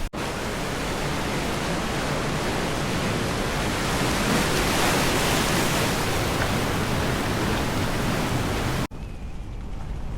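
Steady rushing noise with no tones in it, swelling a little midway, that cuts off abruptly about nine seconds in to a quieter rushing noise.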